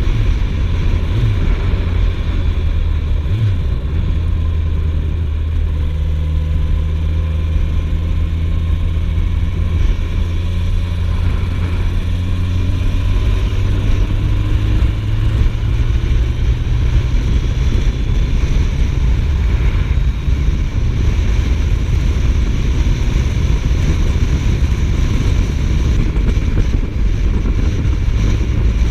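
Suzuki GSF1250S Bandit's inline-four engine running steadily while the motorcycle is ridden, with wind rushing over the microphone. The engine note rises slowly for several seconds in the middle.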